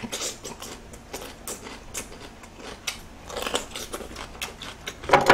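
Raw red bell pepper being bitten and chewed, with irregular crisp crunches. A brief voice sound comes near the end.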